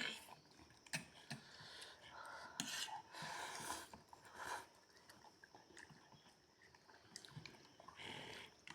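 Faint chewing of spicy instant noodles at a family meal, with scattered soft clicks of spoons.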